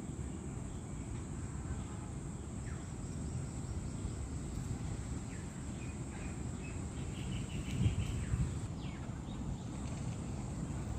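Outdoor background noise: a steady low rumble with a thin high whine, and a few short, faint bird chirps a little past the middle. A brief low thump comes about three quarters of the way through.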